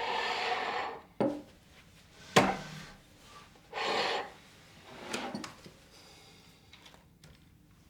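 Household things being handled and put away: several short sliding rubs, with a sharp knock about a second in and a louder one about two and a half seconds in.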